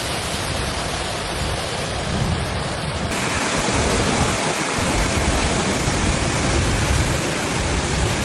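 Heavy rain pouring down in a steady dense hiss, with a rumbling low end like wind on the microphone. The sound shifts abruptly about three seconds in, to a brighter and louder downpour.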